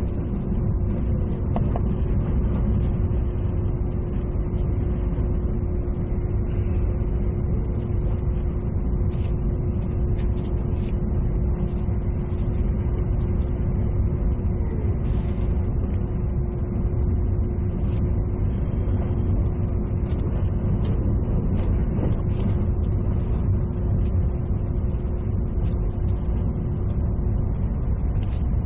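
Interior noise of an E657-series electric limited express train running at speed: a steady low rumble of wheels on rail, with a thin steady hum that stops near the end.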